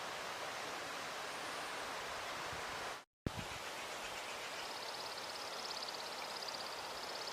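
Steady outdoor rushing noise, cut off for an instant about three seconds in with a click as it resumes. From about four and a half seconds a rapid high-pitched trill joins it.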